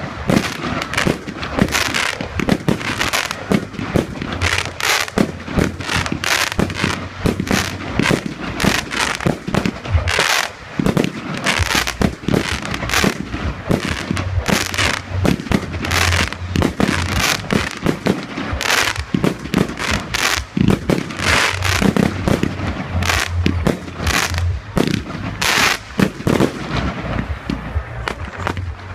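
Fireworks going off in rapid succession: a dense, continuous barrage of bangs and crackles, several a second.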